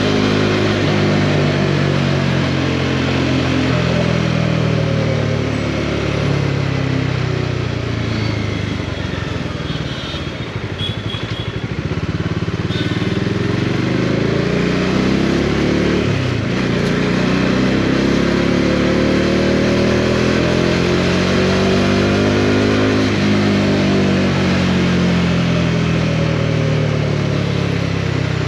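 Bajaj Dominar 400's single-cylinder engine under way. The revs fall for the first several seconds and drop low about ten seconds in, then climb and fall again through the rest.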